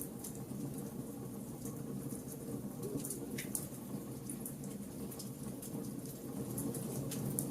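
Wood fire burning: a steady low rush of flame with scattered sharp crackles and pops from the burning wood, a few louder pops about three seconds in and near the end.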